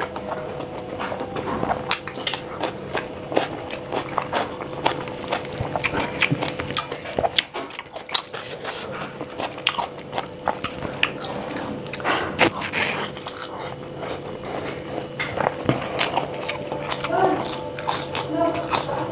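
Close-miked chewing and wet mouth sounds of eating rice and paneer curry by hand, with the small clicks and squelches of fingers mixing rice on a steel plate. A faint steady hum runs underneath.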